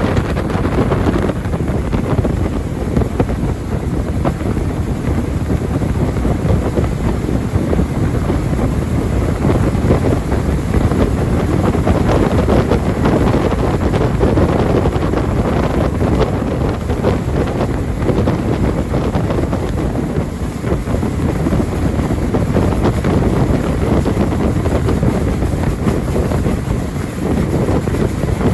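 Jet boat under way, its engine and water rush mixed with heavy wind on the microphone: a steady, loud rushing noise.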